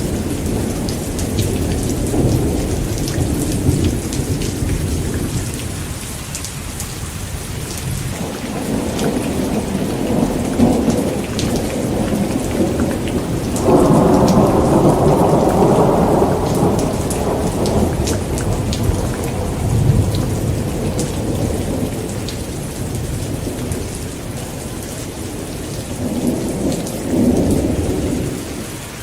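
Heavy rain pouring steadily, with thunder rumbling in low, rolling swells. About halfway through, a sharp, louder thunderclap breaks in and rumbles on for a couple of seconds.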